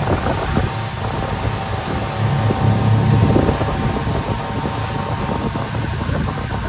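Motorboat engine running steadily, with wind buffeting the microphone; a louder gust of low rumble about three seconds in.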